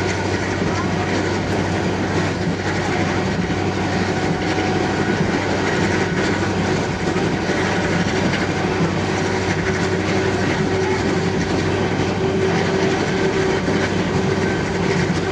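Passenger train running along the track: a steady rumble of wheels on rails with a low hum underneath. A faint steady whine comes up in the second half.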